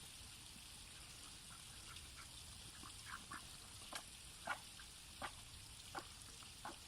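Pet domestic ducks giving short quacks, starting about three seconds in and coming a little more than once a second.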